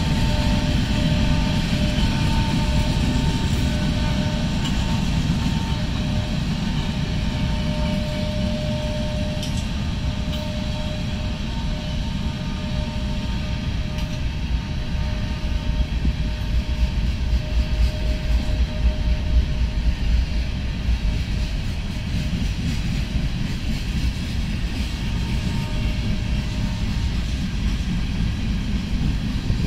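Union Pacific train rolling past, a steady heavy rumble of wheels on rail with a faint whine that comes and goes. It grows louder and choppier for a few seconds past the middle.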